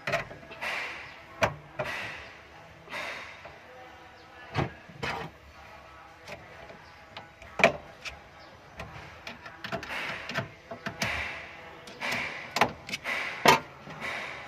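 Irregular sharp knocks and clicks of tools and parts being handled, with short scraping or rattling rushes in between.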